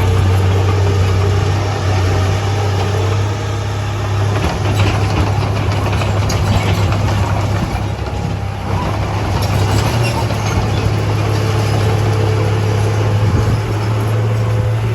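Heavy diesel engine running steadily at a constant low pitch, with a dense mechanical din over it.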